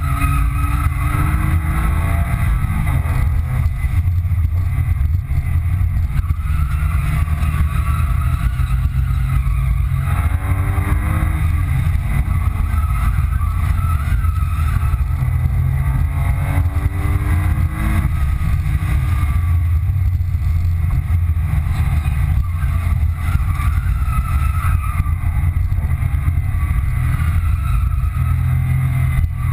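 2005 Porsche 997 Carrera 2's 3.6-litre flat-six heard from inside the cabin while driven hard, its pitch climbing and dropping several times with acceleration and gear changes. A heavy low rumble and road and wind noise run under it.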